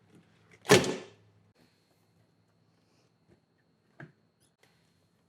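A plastic brake fluid reservoir popping free of its rubber seating grommets: one sharp clunk about a second in, then a faint click near the end.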